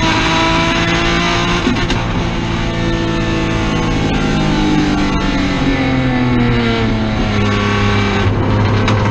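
Race car engine heard from inside the cockpit, held at high revs under full throttle down a straight. Its pitch eases gradually downward over the last few seconds.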